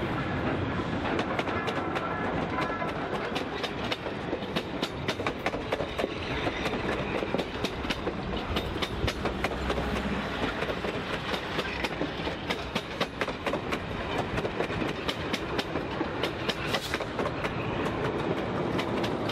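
Passenger train cars rolling past at low speed through a road crossing, the wheels clicking and clattering on the rails with many sharp clicks over a steady rumble.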